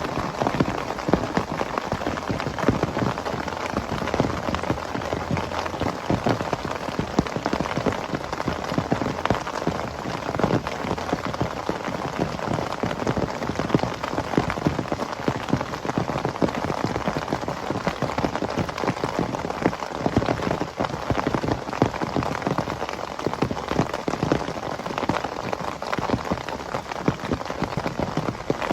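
Heavy rain: a dense, unbroken patter of drops hitting a surface, steady in level.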